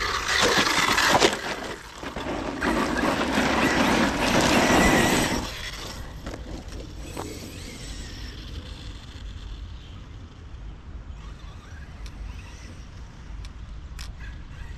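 Arrma Notorious 6S brushless 1/8-scale stunt truck running over rough ground: two loud stretches of tyre and drivetrain noise, with a sharp knock about a second in. After about five seconds it drops to a quieter steady noise with a few faint clicks.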